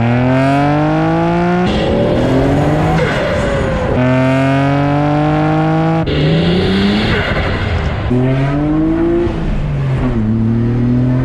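Nissan Skyline R32 GT-R's twin-turbo RB26DETT straight-six, on an aftermarket exhaust with pod filters, pulling hard. Its pitch climbs through the revs again and again, dropping back between pulls.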